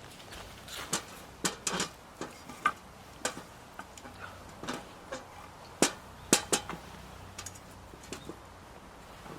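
Irregular knocks and clicks, a few with a brief ring, the two loudest a little past the middle.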